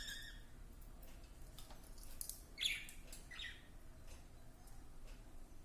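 Pet budgies giving a few faint chirps: one held note at the start, then two short falling chirps around the middle, with light scattered ticks.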